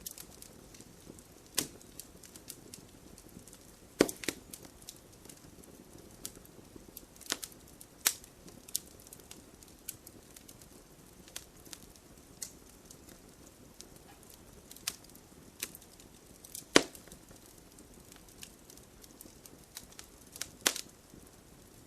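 Wood campfire burning with a soft steady hiss and irregular crackling, sharp pops of the burning wood scattered through it, the loudest about four, eight and seventeen seconds in.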